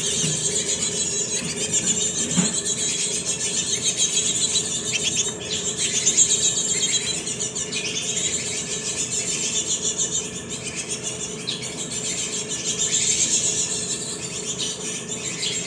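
Fledgling cinereous tits chirping continuously in a stream of rapid, high-pitched squeaky notes.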